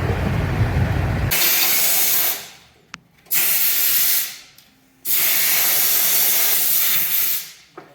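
Low engine rumble that cuts off about a second in, followed by three loud bursts of hissing. The bursts last about one, one and two and a half seconds, each fading out, with quiet gaps between them.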